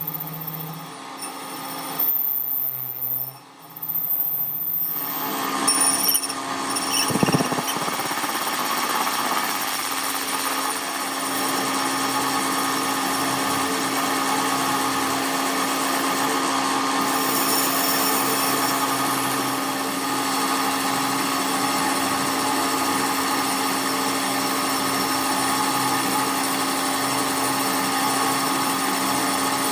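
A power tool or workshop machine starts about five seconds in and runs steadily, with a constant hum under a dense rushing noise.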